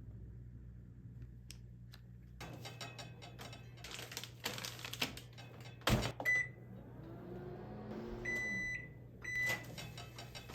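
Microwave oven being loaded and started: handling noise, the door shutting with a sharp clunk about six seconds in, then a few beeps from the control panel and a low hum as the oven starts running.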